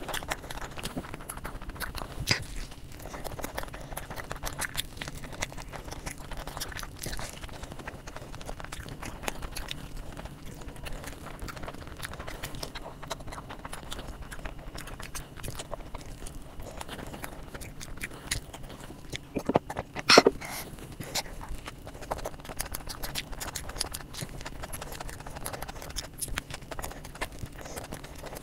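Close-miked eating: a person chewing and biting a chicken roll and curry-soaked samosas, with frequent small wet mouth clicks. A louder cluster of sounds comes about twenty seconds in.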